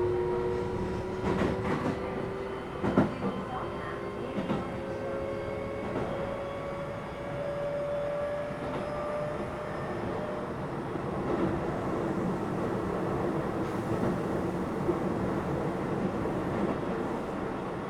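Keio 7000 series electric train running, its motor whine rising slowly in pitch through the first half and then holding steady as the train gathers speed. The wheels click over rail joints several times in the first six seconds, over a steady running rumble.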